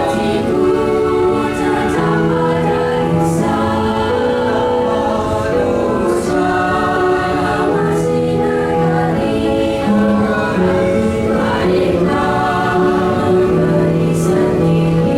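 A vocal ensemble singing in harmony, several voices holding and moving between chords.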